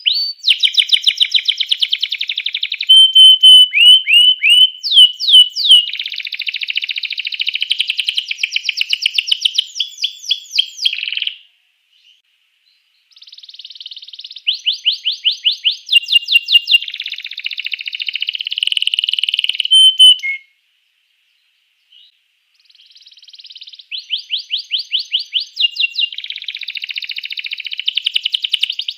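Domestic canary singing long song phrases of rapid rolling trills and sliding whistle notes, in three bouts broken by short pauses.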